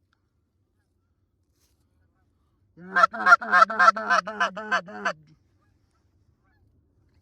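A rapid run of about eight loud goose honks, clucks at three to four a second, starting about three seconds in and stopping after some two and a half seconds.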